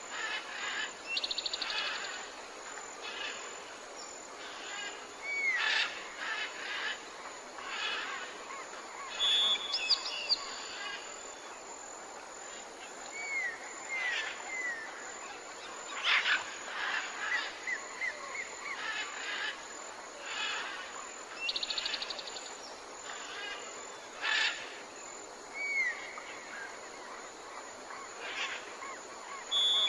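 Wild birds chirping and calling: short chirps, quick trills and brief down-curving whistled notes over a steady background hiss. The same sequence of calls comes round again about twenty seconds later, as in a looped recording.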